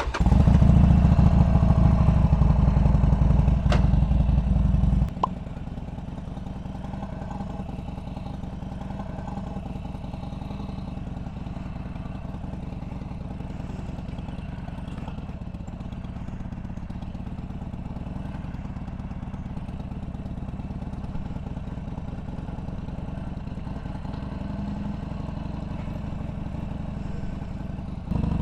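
Harley-Davidson Sportster Seventy-Two's air-cooled V-twin engine running, loud for about the first five seconds, then dropping abruptly to a quieter steady running note.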